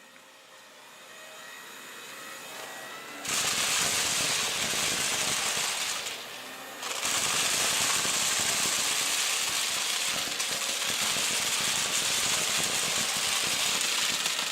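Dyson Big Ball canister vacuum with its turbine head sucking up thick pieces of debris: a loud rushing hiss with a crackly rattle as the pieces go up, starting suddenly about three seconds in. It dips briefly a little past halfway, then comes back.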